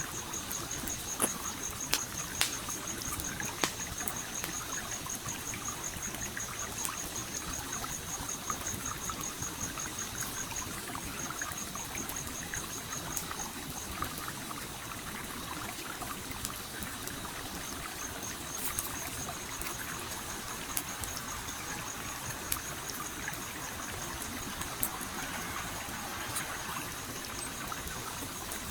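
A stream flowing and trickling steadily, with the sharp, scattered pops and crackles of a burning campfire over it. A high, rapidly pulsing trill runs through it and drops out for several seconds around the middle.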